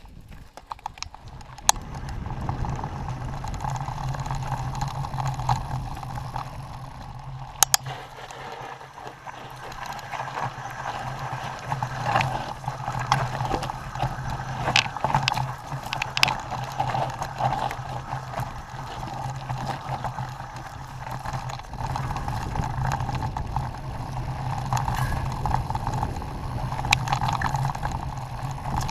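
Mountain bike riding along a dirt trail: continuous rolling tyre noise with frequent sharp clicks and rattles as the bike goes over bumps.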